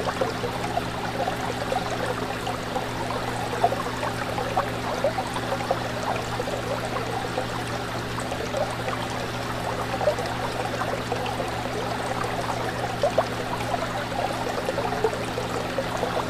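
Fish tank water bubbling and trickling over a steady low hum, with a constant patter of small bubbling pops.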